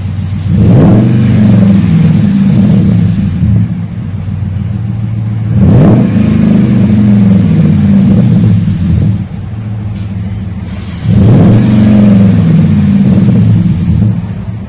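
2011 Dodge Ram 1500's 5.7-litre Hemi V8 revved three times through a true dual cat-back exhaust with a dual-in, dual-out Magnaflow muffler. Each rev climbs quickly, holds for two to three seconds, then falls back to idle.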